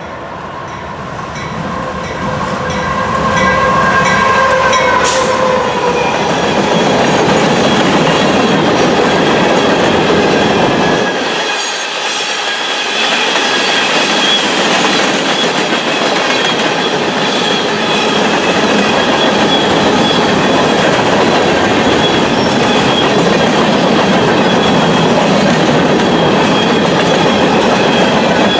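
Loaded rock train passing at speed, a long steady rumble of cars rolling by with clattering wheels. Early on, as the head end arrives, a pitched tone grows louder and drops slightly in pitch. Through the second half a high wheel squeal rides over the rumble.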